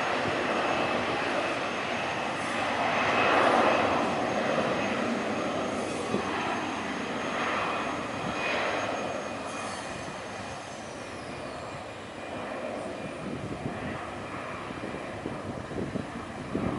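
Jet airliner engines roaring as a plane passes close by, loudest about three seconds in, then fading away with a thin high whine that drops in pitch.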